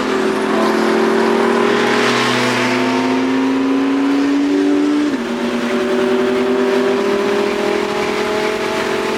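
A supercar engine pulling hard under acceleration, its pitch climbing steadily. About five seconds in the pitch drops suddenly with an upshift, then holds and begins to climb again.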